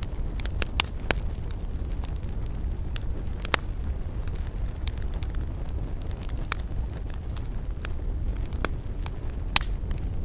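Wood fire crackling in a fireplace: a steady low rumble of burning with irregular sharp pops and snaps, one of the loudest near the end.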